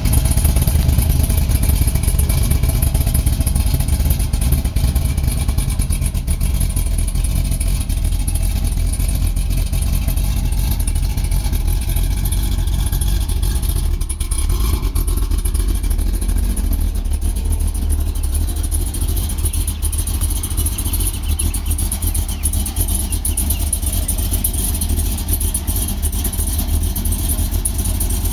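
2004 Pontiac GTO's cammed LS1 V8 idling steadily through long-tube headers, an X-pipe and factory 2005–06 mufflers, giving a deep exhaust note with no revving.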